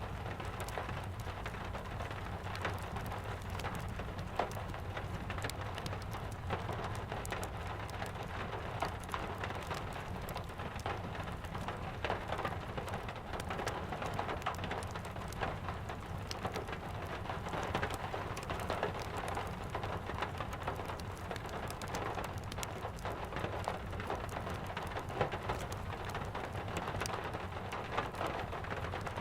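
Steady rain falling, with frequent small sharp crackles and pops scattered through it.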